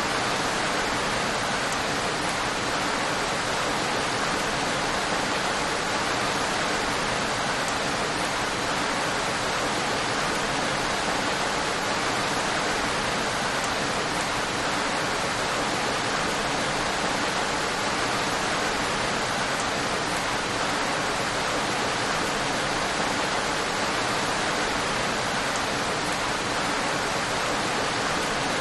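Steady, unbroken rain, an even hiss with no thunder or distinct drops standing out.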